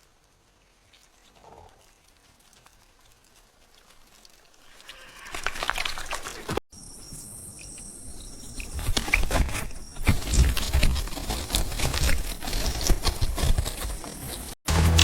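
Crackling and scraping of soil with a low rumble, faint at first and building up. It breaks off suddenly twice and grows denser and louder after the first break.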